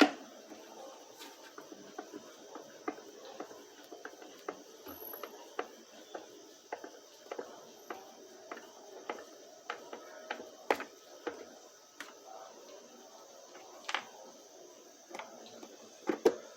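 Scattered clicks and knocks of an Electrolux Flex vacuum cleaner's plastic housing and screws being handled as it is put back together, with a sharper knock about eleven seconds in and a couple near the end.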